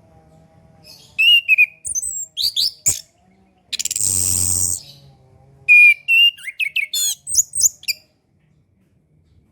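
Chestnut-capped thrush (Anis Kembang) singing: runs of quick, varied whistled notes rising and falling. Between the two runs, about four seconds in, comes a harsh buzzy sound lasting about a second.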